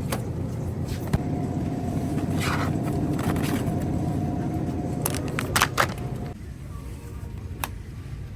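A vehicle's engine running with a steady low rumble and a faint held tone, with a few sharp clicks; the rumble drops to a quieter level about six seconds in.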